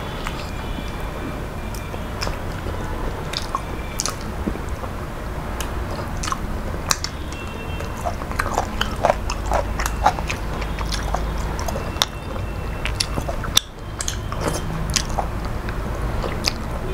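A man chewing food close to the microphone, with repeated wet mouth smacks and sharp clicks over a low steady hum. The sound drops out for a moment about two-thirds of the way through.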